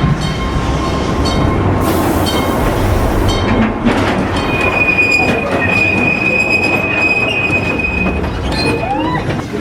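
Mine-train ride cars rumbling and clattering along their track, with a brief hiss about two seconds in. Near the middle the wheels give a long, steady squeal for about four seconds.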